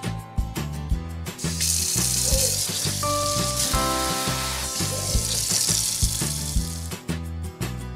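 Pieces of squid frying in hot oil in a miniature metal wok, sizzling from about a second and a half in until just before the end. Background music with a steady beat plays throughout.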